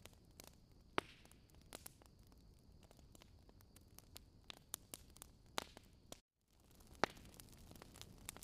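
Wood fire crackling: irregular sharp pops and snaps over a soft hiss, with two louder pops about a second in and near seven seconds. The sound cuts out completely for a moment just after six seconds.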